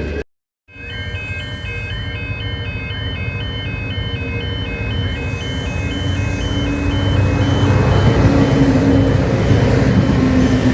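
A repeating two-note electronic warning tone, like a level-crossing alarm, sounds while a train's engine rumbles and grows steadily louder as it approaches.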